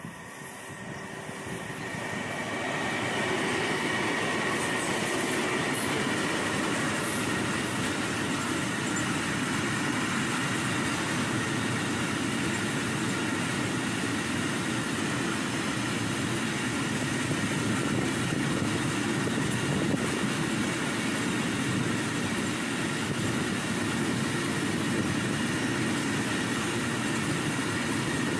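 A very long freight train of open wagons rolling past. The noise builds over the first few seconds as the locomotive passes, then holds steady as the wagons roll by.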